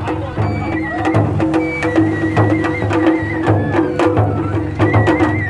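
Japanese festival music: a high flute plays a held, ornamented melody over steady drum beats and sharp percussion strikes.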